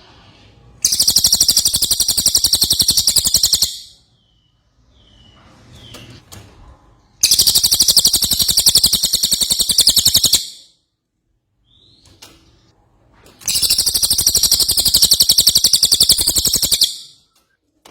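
A cililin songbird singing three long, high, very rapid trills of about three seconds each, with short pauses between them.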